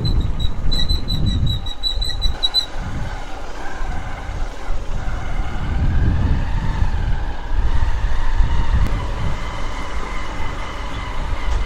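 Cicadas buzzing: a high, pulsing drone that stops about two and a half seconds in, followed by lower insect drones that slowly swell, all over a steady low rumble.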